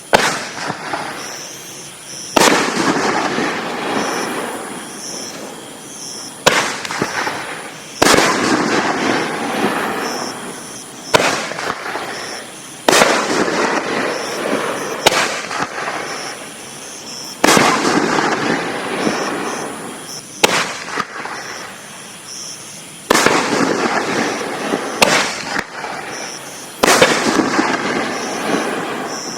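4-inch aerial firework shells bursting one after another, about a dozen sharp bangs spaced one to three seconds apart. Each bang is followed by a long, fading noisy tail.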